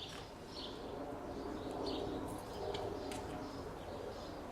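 Birds chirping and calling, with a few light clicks.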